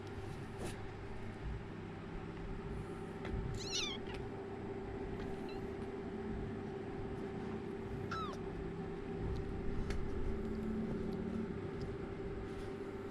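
Kittens mewing: a quick run of high-pitched mews about four seconds in and another single mew around eight seconds, over a steady low hum.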